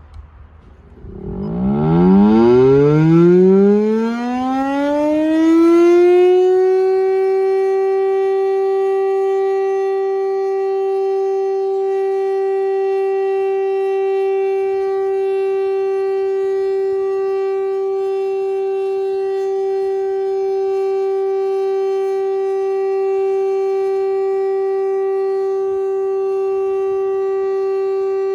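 Federal Signal STL-10 outdoor warning siren winding up from about a second in, its pitch rising for several seconds, then holding one steady loud tone: the steady alert signal of a scheduled siren test.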